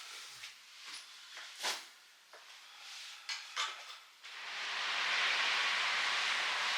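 A few light clicks and knocks, then about four seconds in a steady rushing hiss starts and holds.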